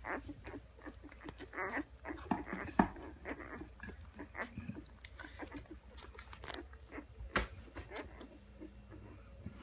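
Five-day-old chocolate Labrador Retriever puppies nursing: a continual run of short squeaks and whimpers mixed with wet suckling and smacking clicks.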